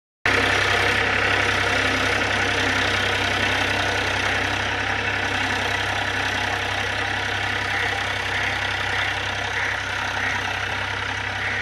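Powertrac Euro 47 tractor's diesel engine idling steadily.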